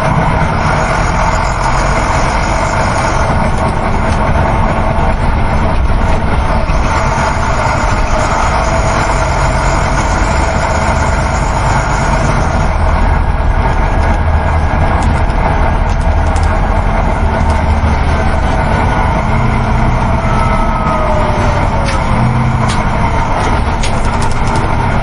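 Coach bus running on the road, heard from inside the passenger cabin: a steady, monotone engine hum under continuous road and tyre noise.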